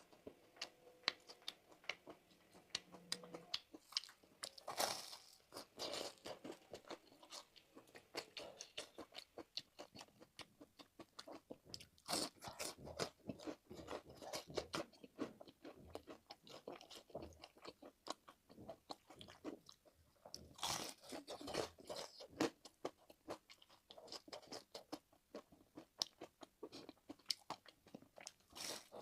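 Close-miked eating: a person biting and chewing crunchy food, with a dense run of crisp crackles and a few louder bites.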